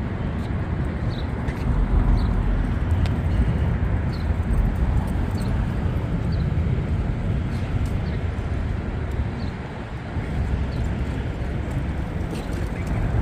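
Steady city street traffic noise with a heavy low rumble, with a faint short high chirp repeating about once a second.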